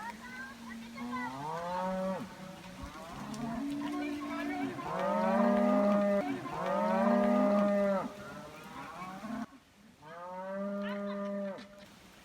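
Cattle mooing: about five long moos, one after another, the last after a short pause.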